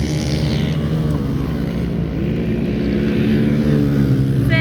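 Several small pit bike engines running together, their pitch drifting gently up and down as the riders vary the throttle.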